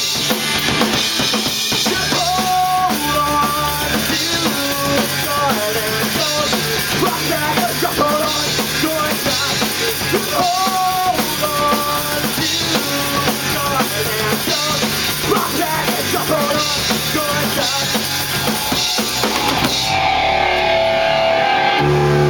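Live rock band of electric guitar, bass and drum kit playing an instrumental passage, with the drums driving under a repeating melodic line. Near the end the drums stop and a held chord rings on.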